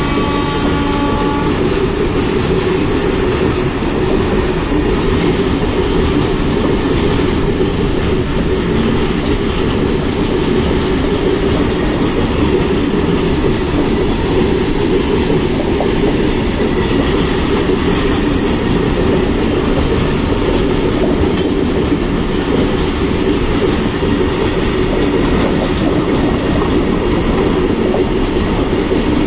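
Loaded freight train wagons rolling past over the rails, a steady, loud noise of steel wheels on track.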